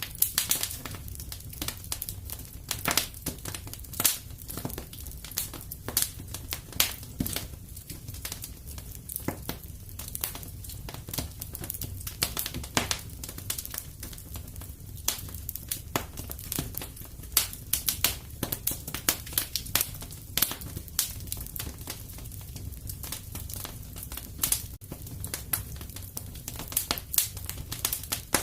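Wood fire in a fireplace crackling: a steady low rumble of flames under irregular sharp pops and snaps, several a second.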